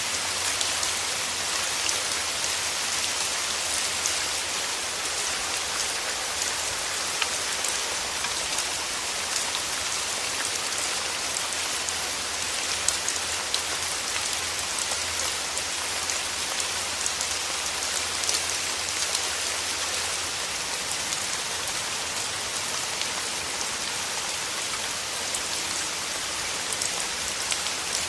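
Steady rain falling, with a dense patter of individual drops over an even hiss.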